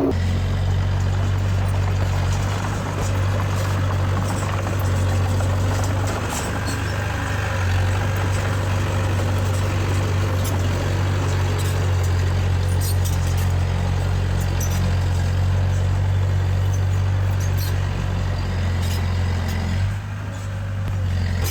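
Heavy-equipment diesel engine running steadily, with a deep even hum that dips briefly near the end.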